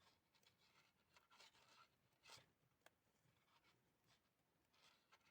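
Near silence, broken only by a few faint clicks and soft scratchy rustles of No. 2 knitting needles and yarn as a purl row is knitted, one sharper click about three seconds in.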